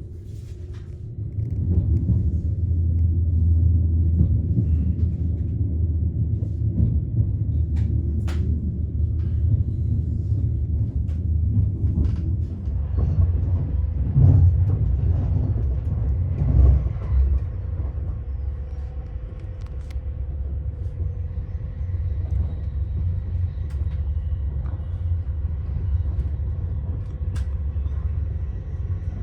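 Passenger train running on the rails, heard from inside the carriage: a steady low rumble that swells about a second and a half in. Scattered light clicks sit on top, and a faint steady hum joins in the second half.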